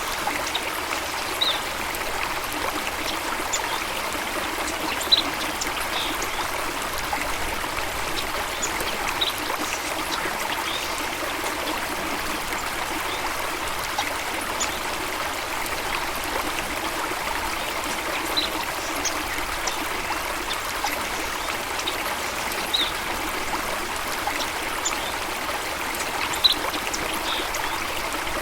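Running stream water, a steady splashing and trickling, with a brief high sound every few seconds.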